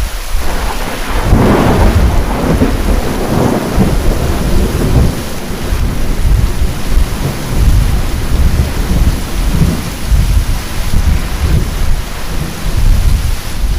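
Thunder rolling over heavy rain: a loud crash about a second in grows into a long, low rumble that carries on throughout, over the steady hiss of a downpour.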